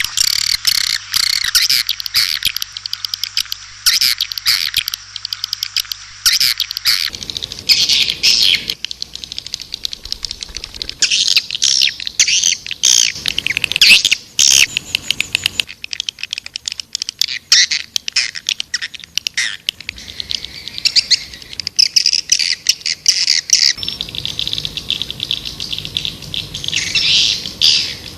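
White-nest (edible-nest) swiftlets twittering in dense, rapid chirping trills, a swiftlet call recording of the kind played to lure swiftlets into a nesting house. The chorus changes character abruptly twice, about a quarter of the way in and near the end.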